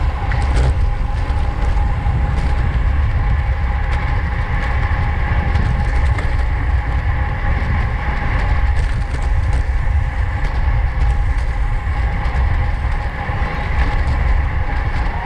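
Wind buffeting a bike-mounted camera's microphone, with steady rolling road noise from a road bicycle at race speed in a pack. A faint steady whine runs under the rumble.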